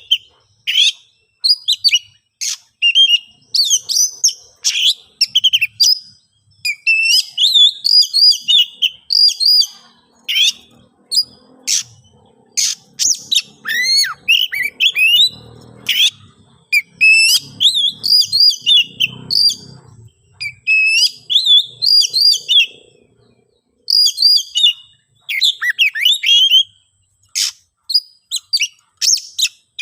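Oriental magpie-robin singing a fast, varied run of sharp chirps and whistled glides in phrases broken by short pauses. It is the agitated, combative song of a male seeking to challenge a rival.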